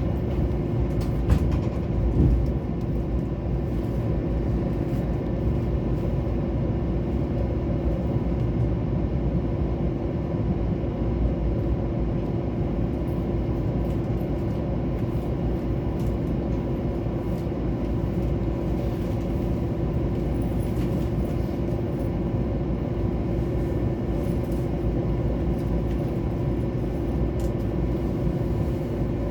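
Mugunghwa-ho passenger train running, heard inside the carriage as a steady rumble with a constant hum, and two short knocks about one and two seconds in.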